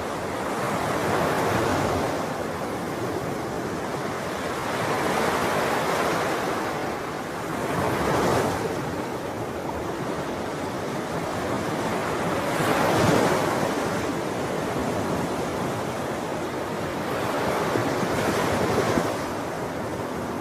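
Sea waves breaking and washing up on a shore, a new wave surging about every four seconds over a steady rush of surf.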